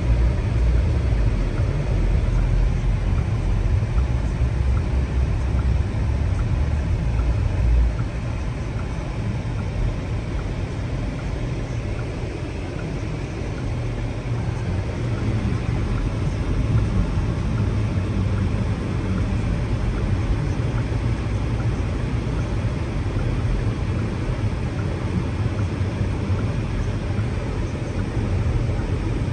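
A car driving, with a steady low rumble of engine and road noise. It drops a little in level about eight seconds in.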